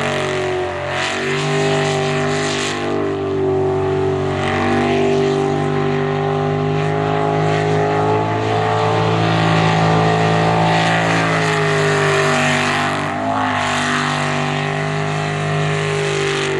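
Jet sprint boat's engine running hard, its pitch rising and falling as the throttle is worked. It dips briefly about a second in and again around 13 s.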